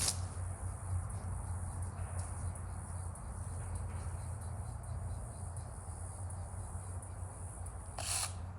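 Outdoor insects making a steady high-pitched drone over a steady low rumble, with a short crackle near the end.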